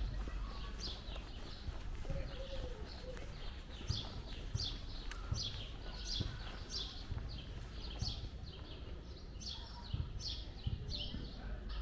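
Small birds chirping busily in quick short falling chirps, several a second. Under them are a walker's footsteps as low, regular thuds.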